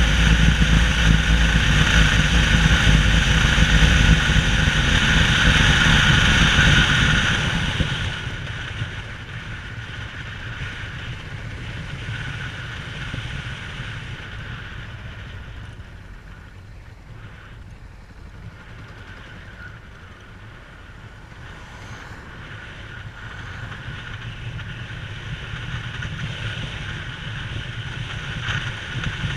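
Small boat's engine running at speed, then throttled back about eight seconds in to a much quieter low run with wind and water noise, and picking up again near the end.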